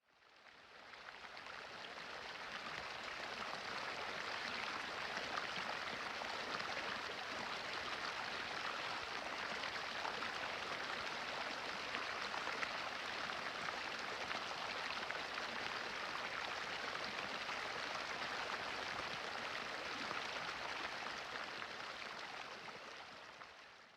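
Campfire crackling: a dense, steady patter of small pops and hiss, fading in at the start and fading out near the end.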